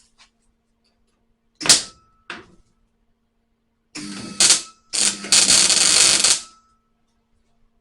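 Welder laying tack welds on a new sheet-steel patch panel in a car's spare wheel well. There are two short bursts about two seconds in, then a longer burst around four seconds and a run of about a second and a half near the end, over a faint steady hum.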